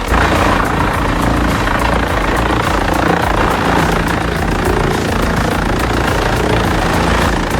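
Heavy machinery engine running steadily, with a rapid, even pulsing.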